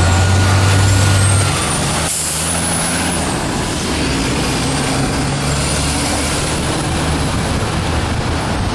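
City street traffic with a heavy vehicle's engine running: a steady low rumble that eases about a second and a half in, and a short hiss a little after.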